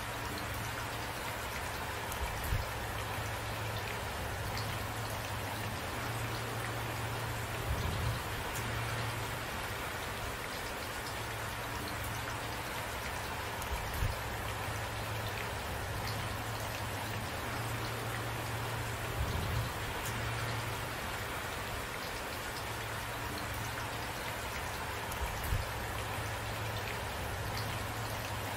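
Steady rain falling on a surface, with individual drops. A short, soft low thump comes about every six seconds, five times in all.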